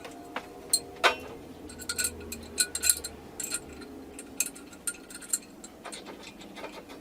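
Irregular light clicks and clinks of small hard objects being handled, some with a brief metallic ring.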